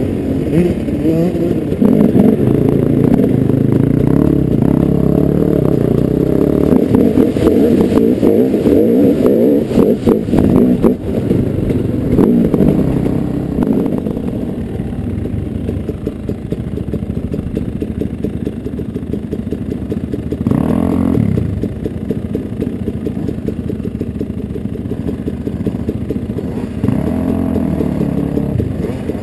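Dirt bike engine running under changing throttle while riding, its revs rising and falling. It is louder through the first half, with a run of knocks and rattles about a third of the way in, and short bursts of revs about three-quarters of the way in and again near the end.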